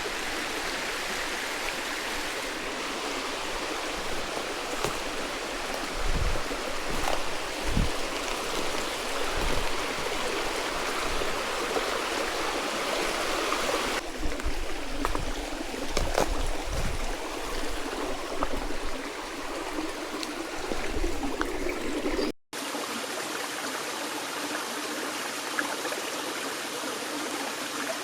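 Steady rush of running water from a forest stream, with a few soft low thumps. The sound breaks off for an instant about two-thirds of the way through.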